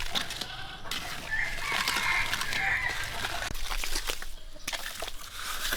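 A rooster crowing once, a long wavering call of about a second and a half that starts about a second and a half in, with scattered light clicks and knocks around it.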